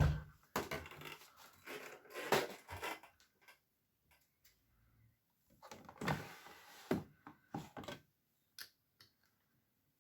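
Bosch Maxx WFL 248Y washing machine tumbling its load in two spells of irregular knocks and rustles, with a quiet pause between them.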